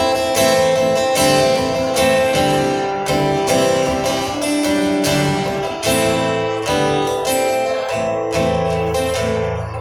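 Acoustic guitar strumming chords in an instrumental passage, with strong strokes about once a second and the chords ringing between them; no singing.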